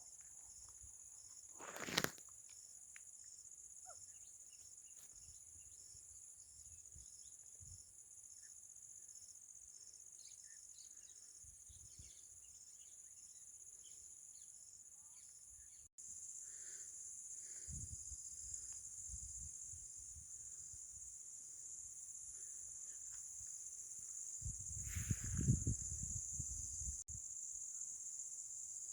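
Steady high-pitched drone of night insects such as crickets, with a sharp knock about two seconds in and scattered low thumps and rustling, loudest a few seconds before the end.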